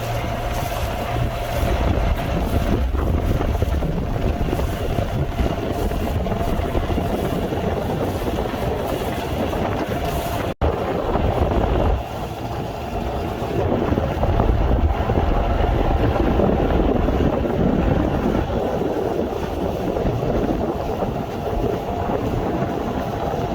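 A boat's motor running steadily under heavy wind buffeting the microphone, with a brief dropout about ten seconds in.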